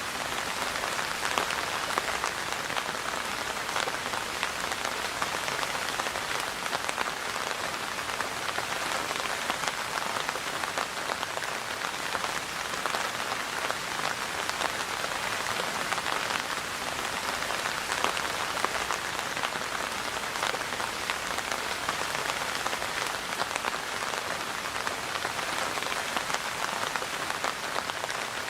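Steady rain falling, a dense even hiss made of countless small drop ticks that stays constant throughout.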